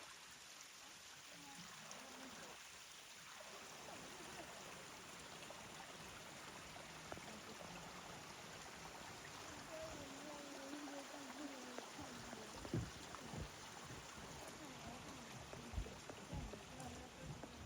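Steady rushing of running water, like a small mountain stream, with a few soft thumps in the second half.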